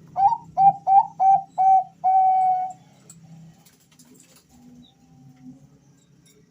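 Male zebra dove (perkutut, Bangkok song line) cooing: five short notes in quick succession, then one longer held note.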